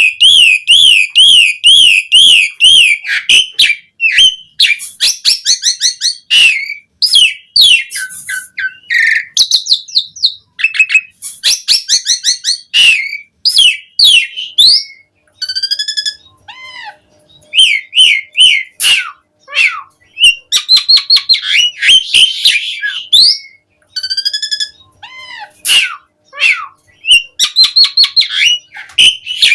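Javan pied starling (jalak suren) singing a long, varied song: a fast wavering trill at the start, then quick runs of repeated notes, sharp clicks and clear whistles, with short pauses between phrases.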